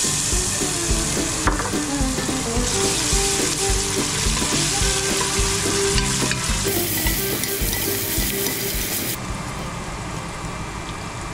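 Minced garlic and ginger sizzling in hot oil in a stainless steel pot, stirred with a wooden spoon. The sizzle eases somewhat near the end.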